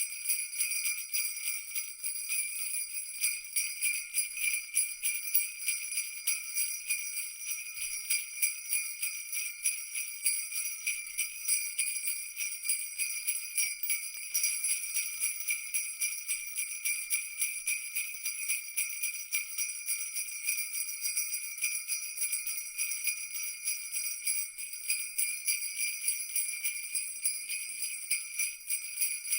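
Jingle bells shaken continuously, a dense steady jingle of many quick strikes with no pauses.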